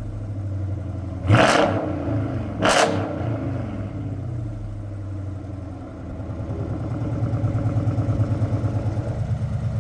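Dodge Charger SRT's 6.4-litre HEMI V8 through an active cat-back exhaust, idling with two quick throttle blips a little over a second apart near the start. After the middle the idle gets louder with a regular pulsing beat.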